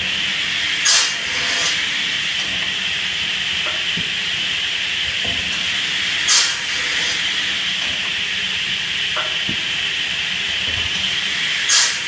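Automated chainsaw log-cutting machine with a pusher running its cycle: a steady high hiss, broken three times, about every five and a half seconds, by a short, loud burst of hiss, with a few faint knocks.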